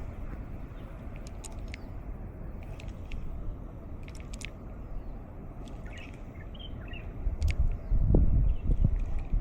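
Wind buffeting the microphone, steady and then gusting louder about eight seconds in, with scattered short bird chirps.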